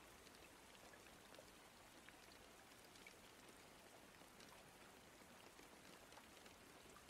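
Faint rain ambience: a steady soft hiss of rain with scattered tiny drop ticks.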